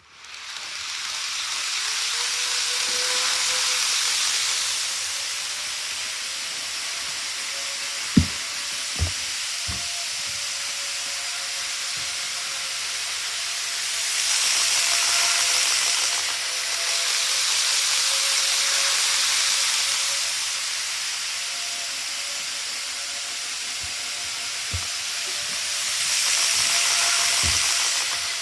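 Model railway train running on its track: a steady hiss with a faint motor whine that drifts in pitch, swelling louder three times as the train comes round past the microphone. A few sharp clicks come about eight to ten seconds in.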